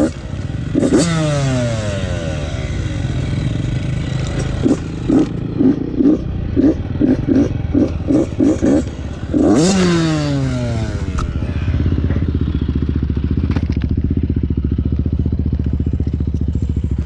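Yamaha YZ85's single-cylinder two-stroke engine being revved: a rev about a second in that falls away, a quick run of about ten throttle blips, another rev that rises and drops back, then a steady idle.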